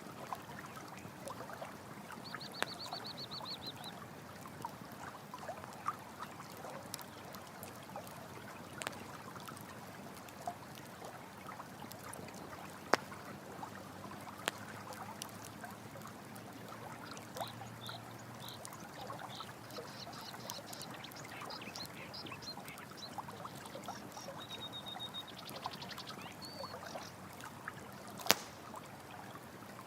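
Running stream water with a campfire crackling, sharp pops every few seconds, the loudest near the end. High rapid chirping trills sound a couple of seconds in and again on and off through the second half.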